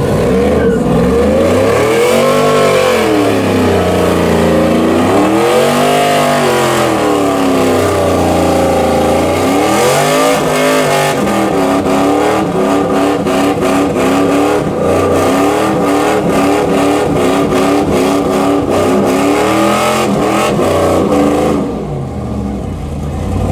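Vehicle engine revving: it rises and falls in three sweeps, then is held at high revs for several seconds before dropping back near the end.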